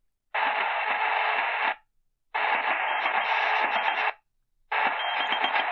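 Sony ICF-SW7600GR shortwave radio's speaker giving steady band hiss and static on an empty channel around 7 MHz, cutting out for about half a second twice as it is stepped up in frequency a kilohertz at a time.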